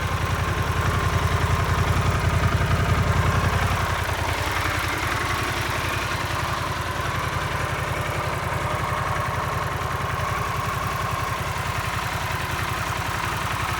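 Harley-Davidson Pan America Special's Revolution Max 1250 V-twin engine idling steadily, a little louder for the first few seconds.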